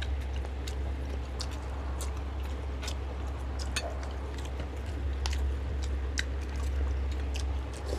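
Close-miked eating sounds: chewing with frequent short wet smacks and clicks of the mouth. A steady low hum lies underneath.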